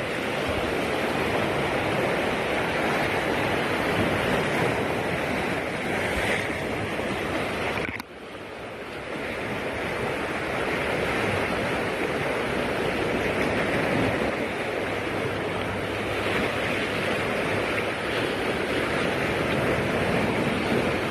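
Heavy sea surf breaking and washing along the shore, a steady rushing noise. About eight seconds in it drops off suddenly and builds back up.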